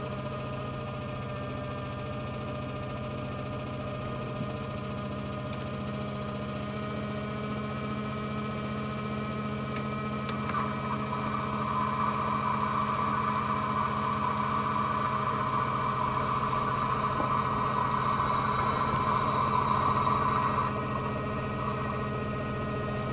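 Toy washing machine running with a steady motor hum. About ten seconds in, a louder whirring noise sets in, holds for about ten seconds, then cuts off, leaving the hum.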